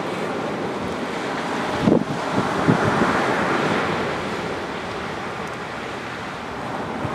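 Waves breaking and washing up a sandy beach, one wave swelling and surging about two seconds in, with wind buffeting the microphone in a few short low thumps.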